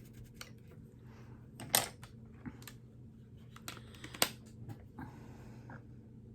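Scattered light clicks and taps of makeup tools and palette being handled, two of them louder, about two and four seconds in, over a faint steady hum.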